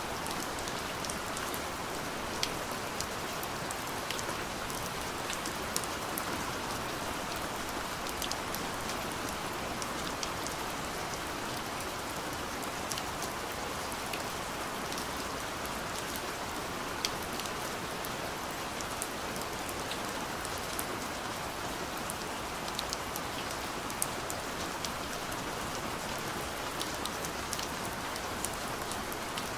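Steady light rain falling on a window pane: an even hiss with scattered sharp drop ticks.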